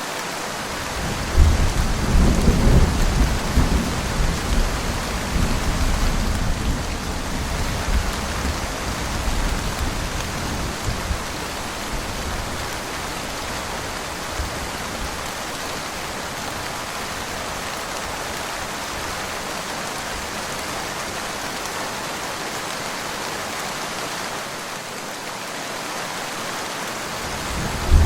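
Steady rain falling, with a roll of thunder that breaks about a second and a half in, rumbles loudest for a few seconds and fades out over about ten seconds. Another thunder rumble starts at the very end.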